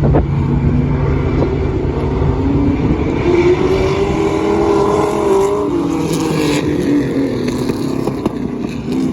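V8 stock car engines running at racing speed on the track; about halfway through, one car's engine note rises and then falls as it goes by.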